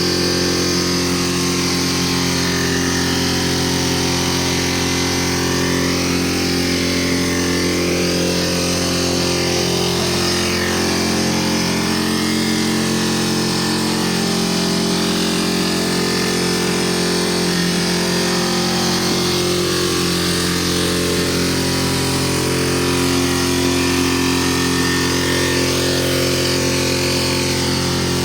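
Piaggio diesel engine in runaway, racing out of control at a steady, unchanging speed, fuelling itself beyond the governor's control.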